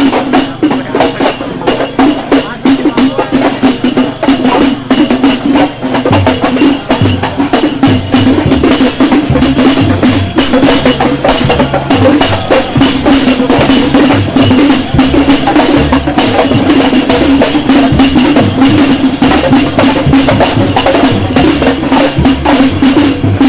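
Loud music played over a procession sound system, led by jingling tambourine strokes, with a stepping bass line coming in about six seconds in.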